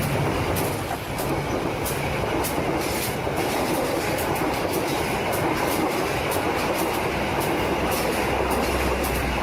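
Train running with a steady rumble and rhythmic clicking of wheels over the rails, about two or three clicks a second.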